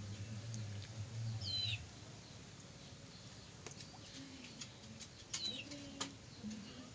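A bird calls twice, each a short chirp falling in pitch, about four seconds apart. Under it, a low hum stops about two seconds in, with a few faint clicks.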